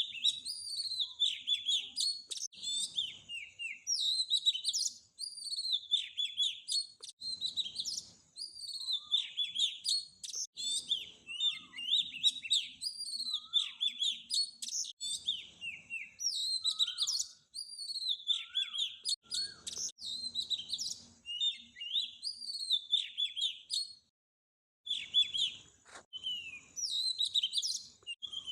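Small birds chirping and tweeting in rapid, overlapping high calls with short pitch sweeps. A brief break in the chirping comes near the end.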